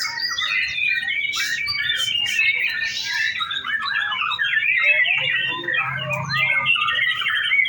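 Several caged white-rumped shamas singing at once, a continuous dense tangle of quick whistled phrases and chattering notes overlapping one another.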